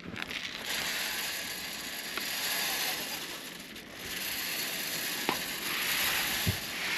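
Crunching scrape through snow in two long strokes of about three and a half seconds each, with a short break between them.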